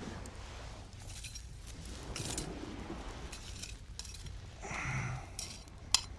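Light clinks and taps of small hard objects being handled, with a short pitched sound about five seconds in and a sharp click near the end.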